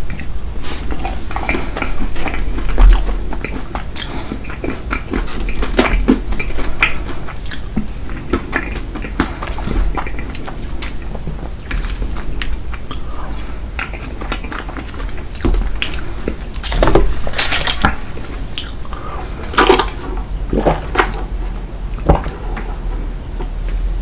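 Cutlery clinking and scraping against dishes, with chewing, as dessert is eaten close to the microphone: short clicks throughout, with a longer noisy burst about two-thirds of the way in.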